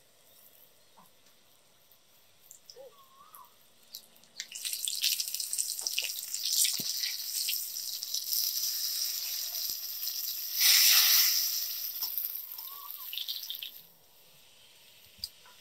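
Battered cutlet frying in shallow oil on a flat griddle pan: a crackling sizzle starts about four seconds in, swells loudest for a moment about two-thirds of the way through, and stops abruptly near the end. Before the sizzle there are only a few faint chirps.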